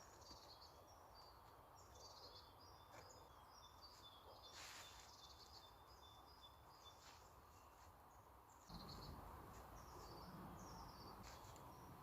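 Faint birdsong: short high chirps repeated over and over, over a quiet outdoor hiss. About nine seconds in, a low noise rises and holds.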